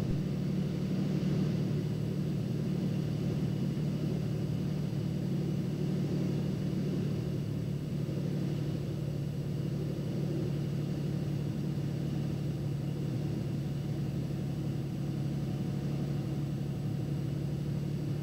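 Turbocharged Cessna 206's piston engine and propeller droning steadily in the cockpit on final approach, with the prop pushed forward and the power held steady.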